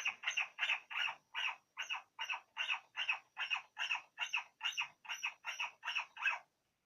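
A puppy panting quickly and evenly, about three breaths a second, stopping shortly before the end.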